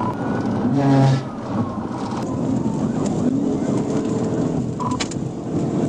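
Police cruiser driving in pursuit: steady engine and road noise, with a siren's gliding wail fading out and a short loud blast about a second in.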